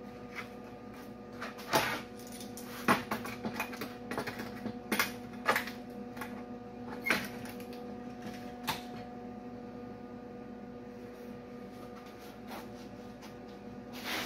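Metal grill bar parts being handled and worked into place by hand: a string of sharp clicks and knocks, busiest in the first nine seconds, over a steady low hum.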